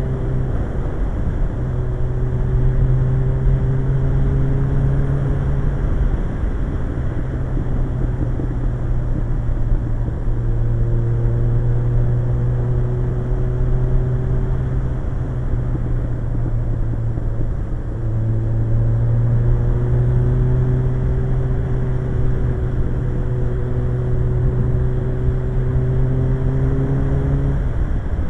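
Suzuki GSX-R 1100's inline-four engine pulling the motorcycle along at speed, its pitch rising slowly and dipping several times as the throttle is eased or a gear is changed, with wind rushing past the microphone.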